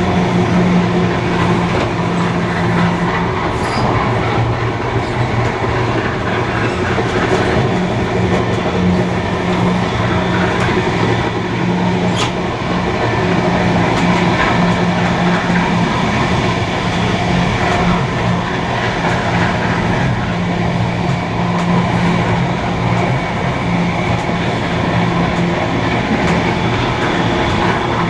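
Steam-hauled heritage passenger train running steadily along the rails: continuous rolling noise with a steady low hum.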